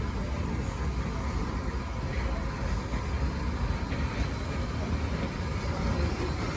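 A train running on the line: a steady low rumble with no distinct beat.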